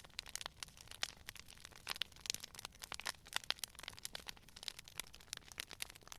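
Campfire crackling: burning wood snapping and popping in quick irregular cracks, many times a second.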